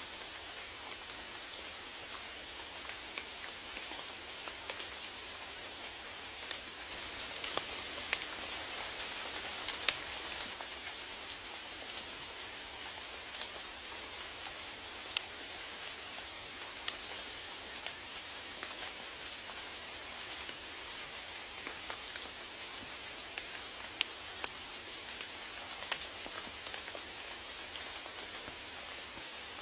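Steady rain falling, a constant hiss with scattered sharp individual drops hitting a surface; one drop about ten seconds in is the loudest.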